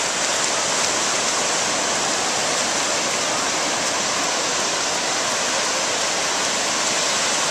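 Ocean surf washing onto the beach, a steady rushing of breaking waves with no rise or fall.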